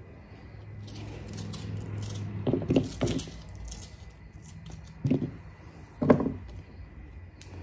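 A few knocks and clatters of cookware and utensils being handled in a kitchen: a quick cluster about two and a half seconds in, then two single knocks, the loudest about six seconds in.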